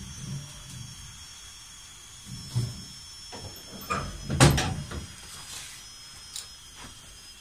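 A few soft knocks and thumps of something being handled, over a faint steady hiss. The loudest cluster comes a little past halfway.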